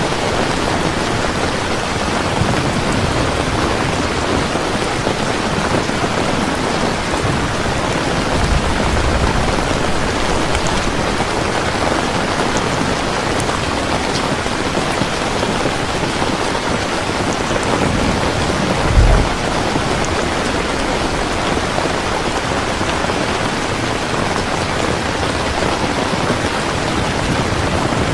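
Heavy steady rain, with low thunder rumbling about a third of the way in and again, louder and briefly, about two-thirds of the way in.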